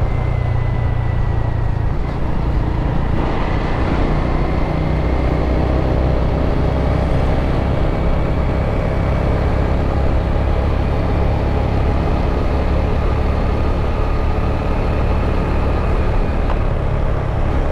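Steady, even running noise of a motorbike being ridden: engine and rushing road noise at a constant pace, with no shifts or revs standing out.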